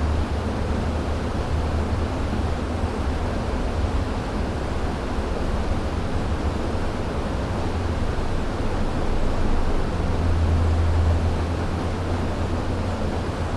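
River water rushing steadily over rocks: a dense, even rush with a deep low rumble that swells slightly near the end.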